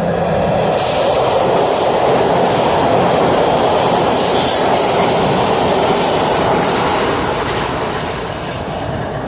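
A train rolling along the rails, steel wheels on track making a steady rumble, with a brief high wheel squeal about a second in.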